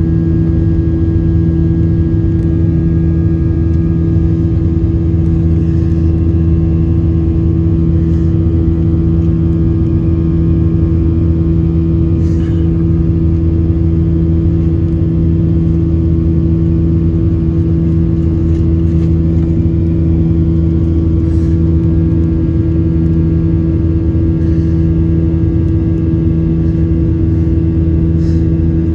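Steady drone of a Boeing 737-800's CFM56-7B turbofan engines heard inside the cabin during the climb after takeoff, several steady tones over a low rumble, with a few faint clicks.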